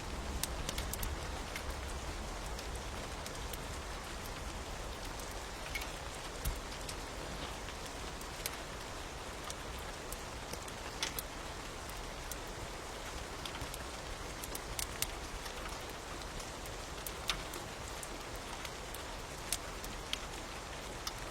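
Steady rain falling, with sharp crackles and pops scattered through it.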